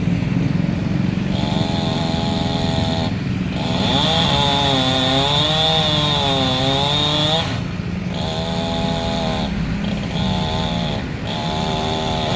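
Chainsaw running hard and cutting wood, its pitch sagging and recovering under load. The cutting comes in several stretches broken by short pauses, about three seconds in, past the halfway mark, and twice near the end.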